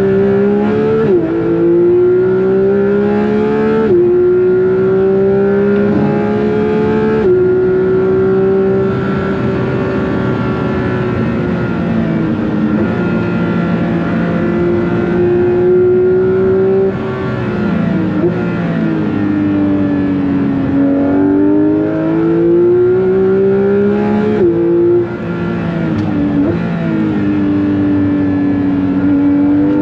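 Porsche 911 GT3 (992.2) naturally aspirated 4.0-litre flat-six heard from inside the car under hard driving: the revs climb and fall back suddenly at each quick upshift, three times in the first several seconds, then ease down and build again through corners, with more sharp gear changes near the end.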